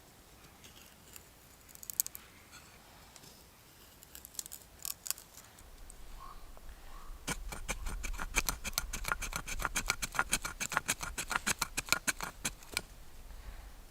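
Knife blade shaving thin curls down a wooden stick to make a feather stick for fire-lighting: a few scattered scrapes, then about halfway through a fast run of rhythmic shaving strokes, several a second, lasting about five seconds.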